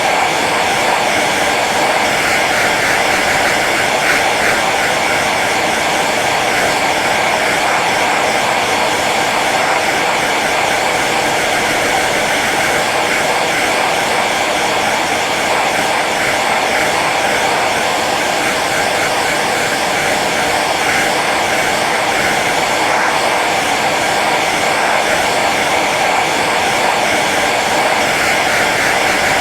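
Hair dryer running steadily on its low setting: an even rush of blown air over a faint motor whine, with no change in speed or pitch.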